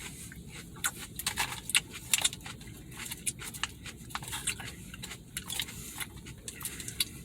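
Close-up eating sounds: chewing and lip-smacking, an irregular run of short clicks.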